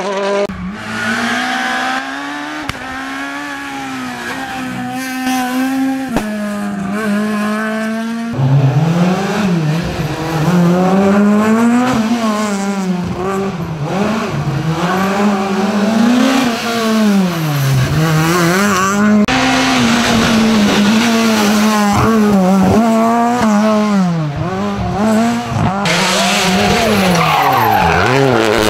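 Rally cars at full attack, one after another: engines revving hard, the pitch climbing and dropping again and again as they change gear and lift for corners.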